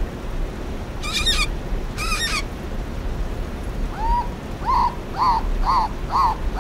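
Cockatoo calling: two harsh, rasping screeches about a second apart, then after a pause a run of short, arched calls repeated about twice a second.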